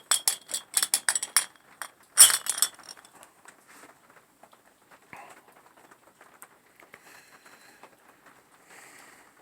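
Small glass soda bottles clinking and rattling against copper wire holders as they are pushed into place, a quick run of sharp clinks with one loudest knock about two seconds in, then only faint handling sounds.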